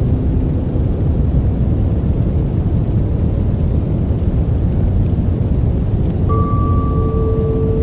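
Steady, loud, low rushing noise with no breaks, of the kind used as a sleep noise track. About six seconds in, two soft held tones join it, one higher than the other.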